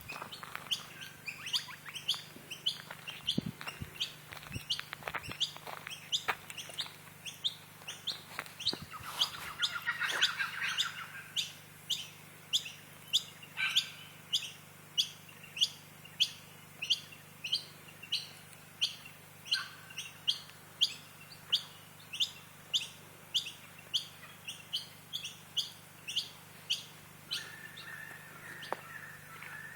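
A bird repeating one short, high chirp over and over at nearly two a second, with other birds chattering and calling around it.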